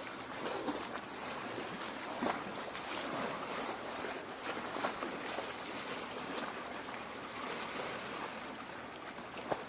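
Lake water lapping and trickling against the shore, a steady wash of water with small irregular splashes and drips throughout.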